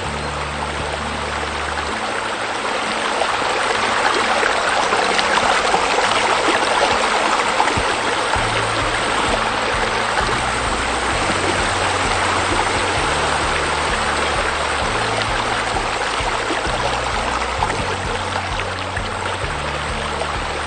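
Rushing, splashing water of a waterfall, swelling louder about three seconds in, over background music with slow low bass notes.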